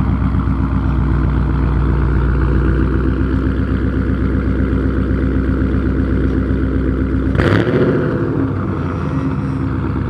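Car engine fitted with an aftermarket cam, idling with a loud, pulsing, choppy note. About seven and a half seconds in there is a sudden sharp knock, and the low end of the idle drops slightly after it.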